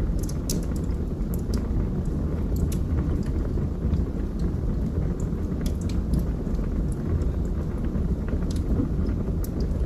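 Wood fire burning in a fireplace: a steady low rumble of flames with scattered sharp crackles and pops of burning wood.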